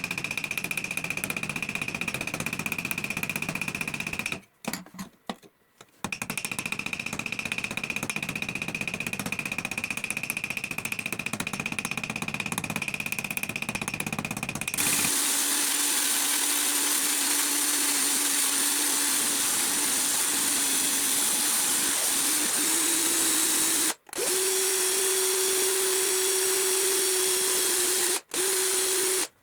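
Electric power tool running steadily with a high whine. About halfway through it changes to a lower motor note with more hiss, and the pitch rises slightly. Brief drop-outs break it a few times.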